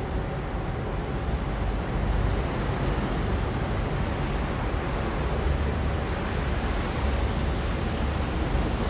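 A train running by: a steady, even rumble of noise with a faint thin whine held throughout, getting slightly louder about two seconds in.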